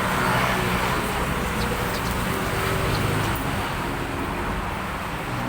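Steady road traffic noise, with faint voices in the background.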